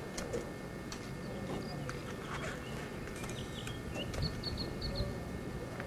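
A bird chirping, with a quick run of four or five short high notes near the end, over a steady background hiss with scattered faint clicks.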